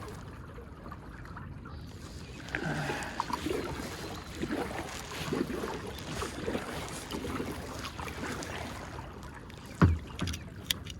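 Kayak paddle strokes splashing through the water in an irregular run, paddling upstream against a current, over a steady background of moving water. A sharp knock sounds near the end, followed by a smaller one.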